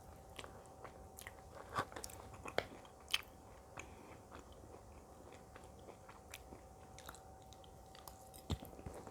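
Faint, close-miked chewing and biting of food: scattered soft mouth clicks and a few sharper bites.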